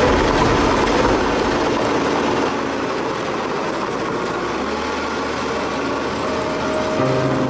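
Loud, steady mechanical rumble like a heavy vehicle or train running, with a few steady tones coming in near the end.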